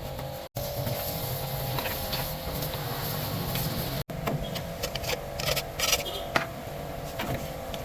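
A steady mechanical hum with scattered light taps and clicks, which cuts out to silence twice for an instant.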